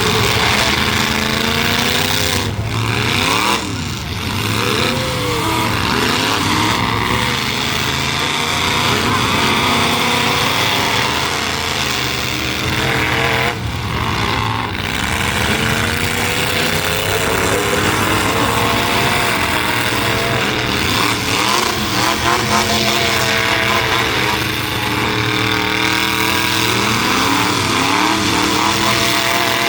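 Several demolition-derby truck engines running and revving together, their pitch sweeping up and down again and again over a loud, steady drone.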